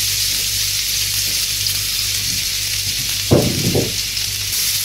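Grated carrot sizzling in hot vegetable oil in a stainless steel frying pan, a steady hiss. A short low thud a little past three seconds in.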